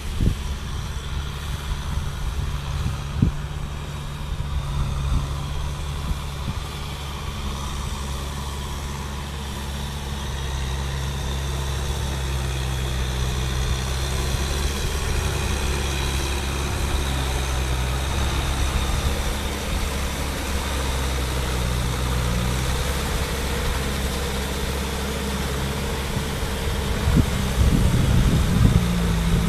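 Kubota M6040 tractor's four-cylinder diesel engine running steadily, growing somewhat louder near the end.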